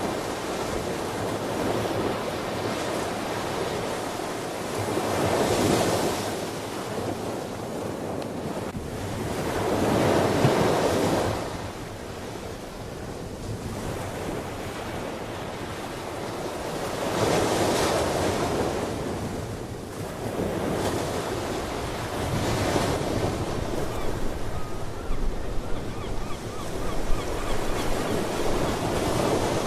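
Ocean surf: waves breaking and washing on a shore, the rush swelling and ebbing roughly every five seconds.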